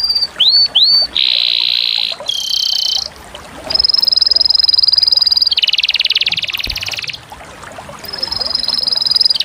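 Canary singing: a few quick rising whistles, then a run of long, rapid trills, each held at one pitch before switching to another, with short breaks between some of them.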